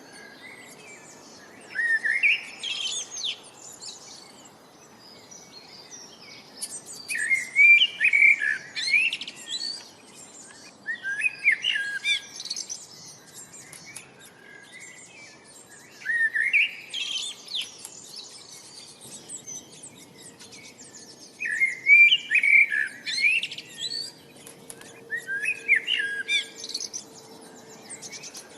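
Bird song: short phrases of quick rising and falling chirps, repeated about every four to five seconds over a faint background hiss.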